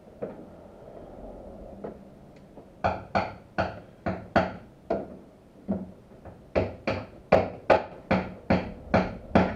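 Repeated hammer blows, roughly two to three a second with a brief pause near the middle, starting about three seconds in. It is a part being knocked free: the heater matrix of a Ford Sierra XR4x4 being persuaded out.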